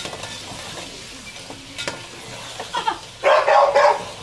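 Chicken pieces sizzling in hot oil in an aluminium pot as a slotted metal spoon stirs them, with a clink or two of the spoon against the pot. In the last second and a half a dog barks several times, louder than the frying.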